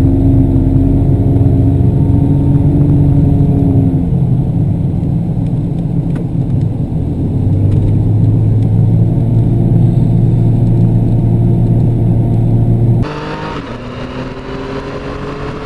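Yamaha FZ-09 sport bike's three-cylinder engine running under way, loud, its pitch easing down about four seconds in and then holding steady. Near the end the sound drops abruptly to a quieter engine note.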